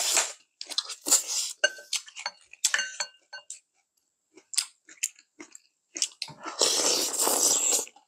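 Close-up eating sounds of a crab and rice meal: chewing and crunching with repeated short sounds, and a few brief clinks of metal chopsticks and spoons against bowls. A longer noisy stretch of eating comes near the end.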